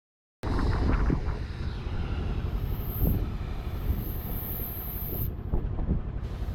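A loud, steady mechanical rumble with a clatter of knocks, cutting in abruptly about half a second in.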